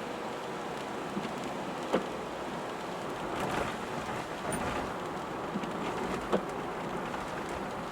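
Rain falling on a moving car: a steady hiss of rain and road noise, with a few sharp taps, the loudest about two seconds in and again after six seconds.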